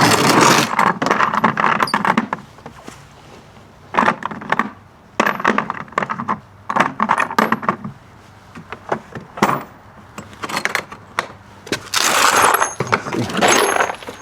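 Repeated metallic clinks, knocks and scrapes of tools and hardware being handled and shifted, with a longer, louder scraping clatter near the end.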